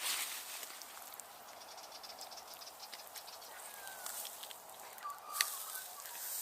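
Rustling and crackling of dry foliage and mulch being moved through or handled, with a sharp click about five seconds in and two faint short whistled notes.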